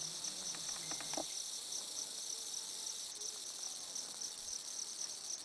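Steady, evenly pulsing high-pitched insect chorus, with a few faint clicks in the first second or so.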